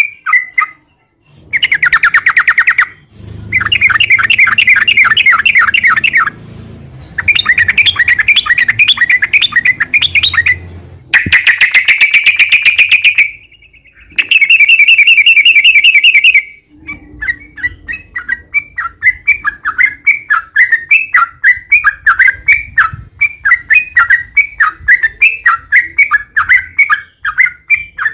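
Yellow-vented bulbul (trucukan) singing: loud, fast rolling chattering phrases in several bursts a few seconds long, then from about halfway a long run of short, quickly repeated notes.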